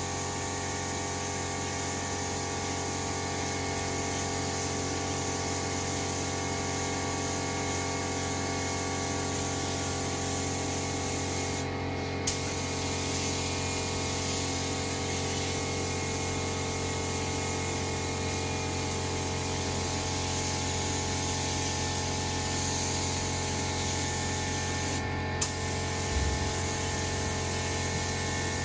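Mini air spray gun hissing steadily as it sprays kandy paint. The spray stops briefly twice, each pause ending in a short click.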